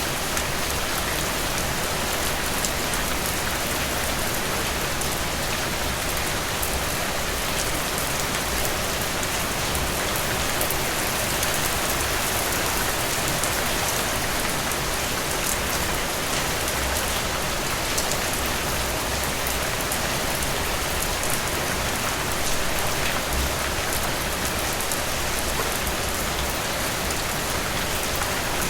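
Steady rain: an even hiss with scattered small drop taps, unchanging throughout.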